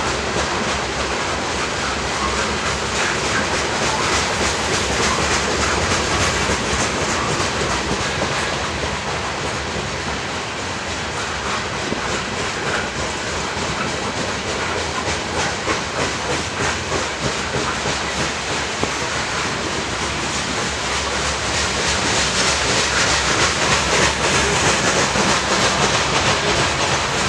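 A train's cars rolling past on the track: a steady rumble with a rapid clicking of wheels over the rails, growing a little louder near the end.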